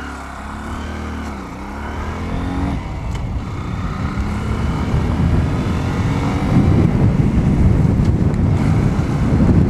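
2015 Honda Grom's 125 cc single-cylinder engine under way. Its note rises and drops a few times in the first three seconds, then gives way to a steadily louder rush as the bike picks up speed.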